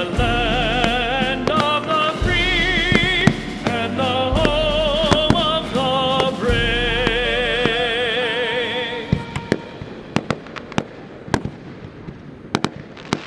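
Fireworks going off in sharp bangs over a song with a singer's wavering vibrato and heavy bass. The song stops about two-thirds of the way through, leaving a quick string of sharp firework cracks.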